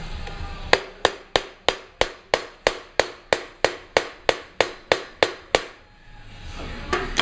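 Hammer striking steel in an even rhythm, about sixteen sharp ringing blows at roughly three a second, then stopping: working at a seized bolt.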